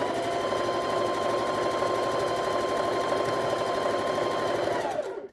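Electric sewing machine stitching a seam at a steady speed, a rapid even needle rhythm over a steady motor whine that winds down and stops near the end.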